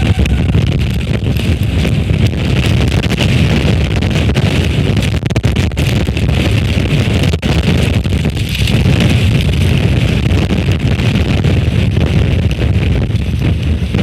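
Storm-force wind buffeting an outdoor microphone: a loud, continuous low rumble with a rushing hiss over it, rising and falling only slightly.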